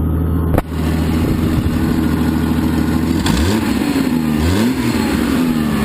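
A 1994 Jeep Grand Cherokee's inline-six engine running with leaking exhaust: a leaking manifold gasket, a cracked header and a leaking muffler. It runs steadily and is revved briefly twice, a little past halfway and again about a second later.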